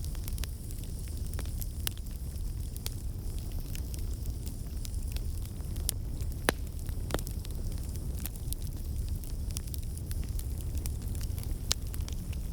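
Fireplace crackling: a steady low rumble of burning wood with scattered sharp pops and snaps, one louder pop about six and a half seconds in.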